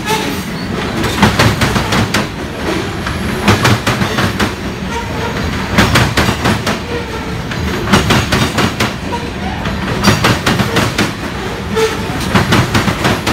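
Freight train of covered hopper cars rolling past, its steel wheels clacking over rail joints in clusters about every two seconds over a steady rumble.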